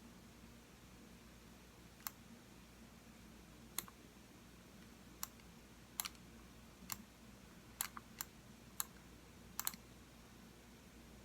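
Computer mouse buttons clicking: about ten sharp single clicks at irregular intervals, a couple of them quick double clicks, over a faint steady room hum.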